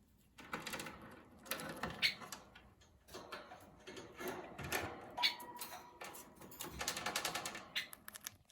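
Rosy-faced lovebird making rapid, scratchy chattering and clicking sounds in uneven bursts.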